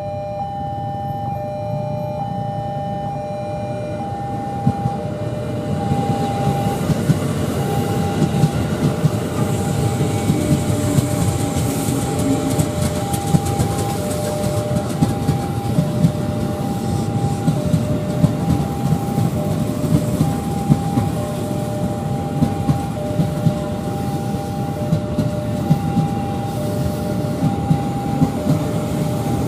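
A train passing over a railway level crossing, its wheels clacking steadily over the rail joints, building up about five seconds in. Throughout, the crossing's electronic warning alarm sounds a repeating two-tone signal.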